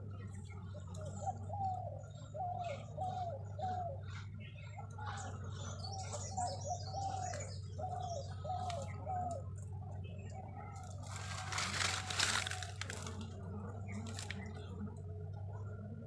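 A bird calling in short runs of quick rising-and-falling notes, four or five to a run, over a steady low hum. A burst of rustling noise comes about two-thirds of the way through.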